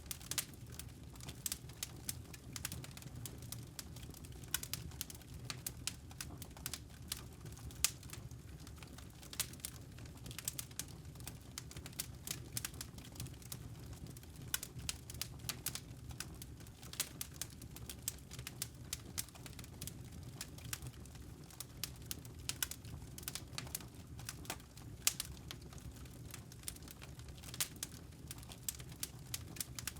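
Wood fire crackling, with frequent irregular sharp pops and snaps over a steady low hum.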